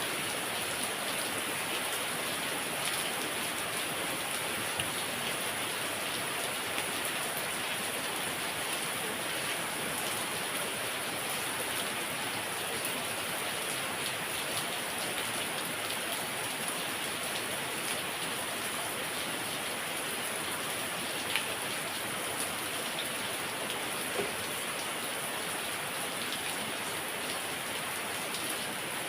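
Heavy rain falling steadily: an even hiss with scattered single drops ticking on a hard surface.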